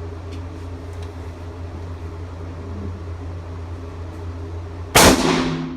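A single rifle shot from a U.S. M1917 Enfield bolt-action rifle in .30-06, about five seconds in, very loud with a reverberating tail off the walls of an indoor range. A steady low hum of ventilation runs underneath.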